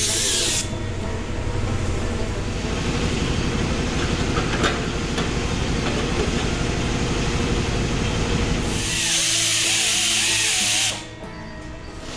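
Power tools working sheet metal in a fabrication shop, a fast rattling run followed by a stretch of hissing, over background music.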